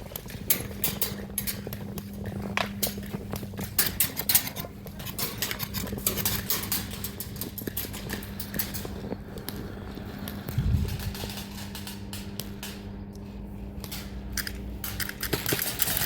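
Airsoft guns firing in a game: irregular sharp cracks and rattling clicks of shots, busiest in the first few seconds and again near the end, over a steady low hum.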